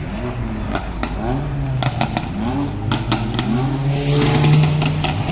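A car accelerating hard through the gears, its engine pitch climbing and dropping back several times, with sharp crackling pops. A steady engine drone runs underneath, and the passing car is loudest near the end.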